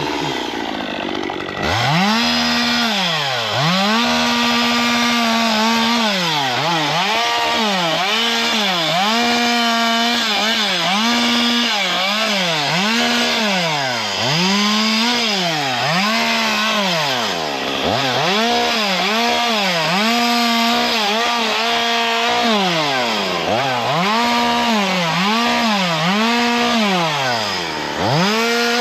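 Two-stroke chainsaw running and being revved up and down over and over, roughly once every second or so, as it cuts. At a few points it is held at full speed for a second or two. The revving starts about two seconds in.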